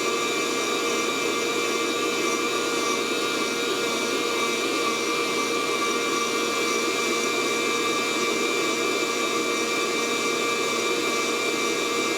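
Fresh Roast SR800 hot-air coffee roaster running at high heat, its fan whirring steadily with a few held tones. There are no cracking pops: the beans have not yet reached first crack.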